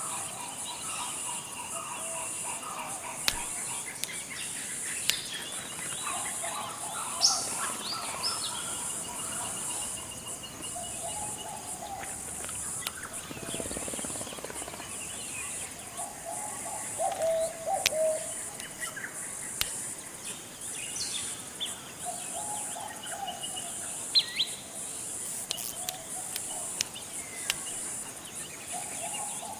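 Tropical forest ambience: a steady, evenly pulsing high-pitched insect chorus, with many short bird calls and chirps over it and a few sharp clicks.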